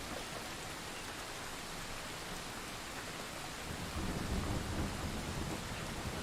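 Thunderstorm: steady rain hiss, with a low rumble of thunder rolling in a little past halfway and growing louder.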